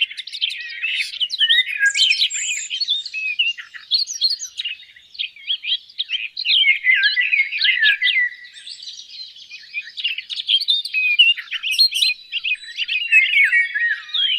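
Small songbirds chirping and twittering almost without pause, a fast run of high, quickly changing warbled notes.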